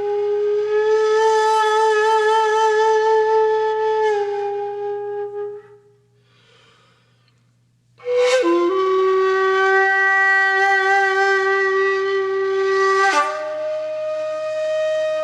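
Conch shell (shankha) blown in two long held blasts, each several seconds, with a pause of about two seconds between them; the second blast opens with a sharp upward scoop in pitch and shifts to a higher note near the end.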